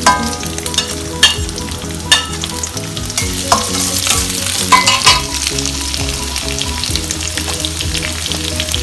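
Chopped onions sizzling in hot oil in a steel pan over a high flame, stirred with a slotted metal spatula that scrapes and clicks against the pan several times.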